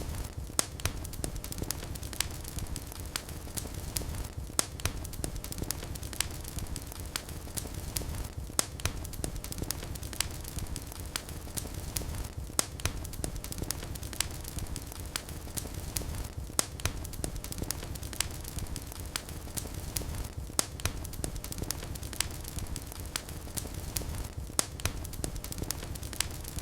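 Wood fire burning in a fireplace: a steady low rumble and hiss of flames with frequent sharp crackles and occasional louder pops.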